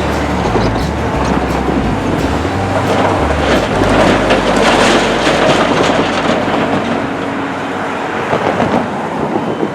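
Heavy construction machinery running, a diesel engine's steady drone with metallic clanking and rattling; the low engine hum drops away about halfway through while the rattling goes on.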